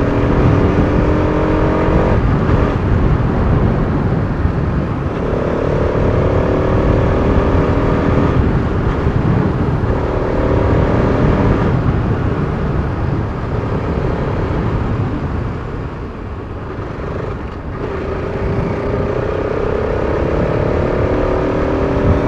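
Bajaj Pulsar RS200's single-cylinder engine while riding, climbing in pitch in several rising runs with short drops between them as the throttle closes or the gears change. Under it is a heavy, steady rush of wind and road noise.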